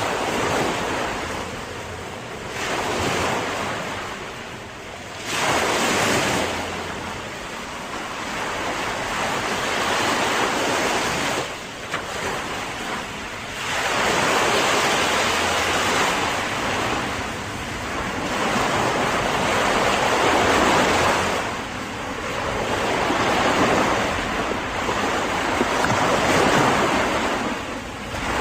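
Ocean surf: waves breaking and washing on the shore, the rush swelling and falling every few seconds.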